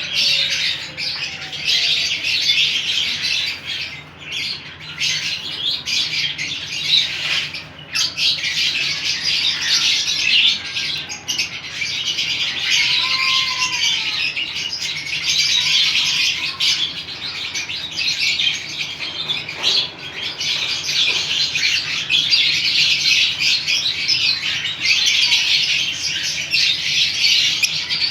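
Pet birds chattering and chirping without pause, a dense mix of quick high chirps and squawks.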